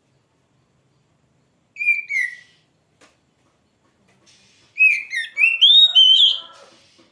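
Oriental magpie-robin (kacer) singing: a short two-note whistled phrase, then after a pause a longer burst of quick rising and falling whistled notes.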